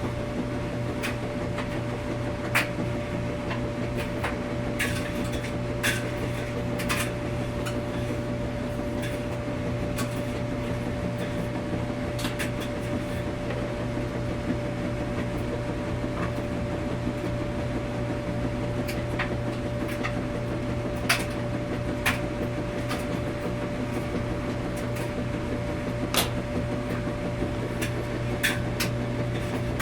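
Washing machine running in a laundromat with a steady mechanical hum and whine, with irregular light clicks and knocks scattered through it.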